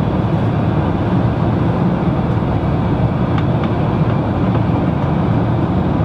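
Steady low rumble of an airliner cabin, with a few faint ticks over it.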